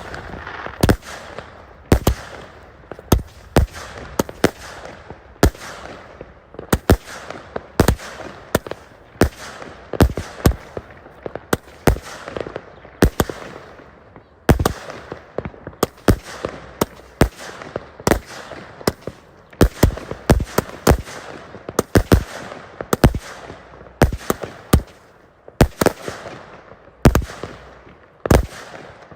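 A continuous barrage of fireworks: sharp bangs, roughly one to two a second at uneven spacing, over a steady hiss.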